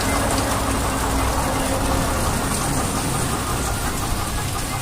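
Steady engine rumble under a continuous hiss of water spray, as of a tractor radiator being washed with a water jet.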